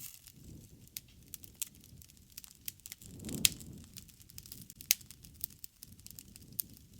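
Campfire burning, the wood crackling with many small sharp pops over a low rumble of flame. One louder pop comes about halfway through, with a brief swell of the rumble around it.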